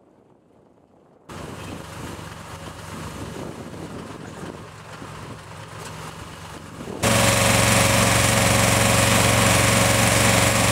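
Heavy truck engine running. It is faint at first, louder from about a second in, and then loud and steady from about seven seconds in, each rise an abrupt jump in level.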